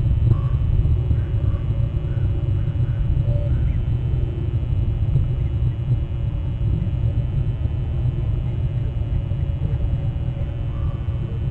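Steady low rumble, with faint short calls from distant birds, a few in the first seconds and again near the end.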